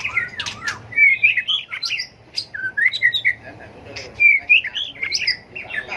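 White-rumped shama singing a varied song of quick whistled phrases mixed with sharp clicks, with a brief lull about two seconds in.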